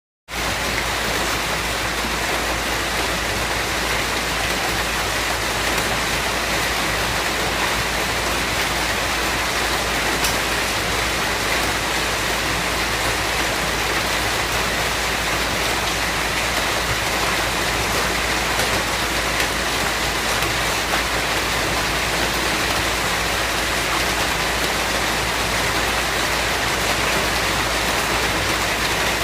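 Steady, dense rainfall: an even hiss of rain with no distinct drops standing out. It cuts in abruptly just after a brief dead silence at the very start.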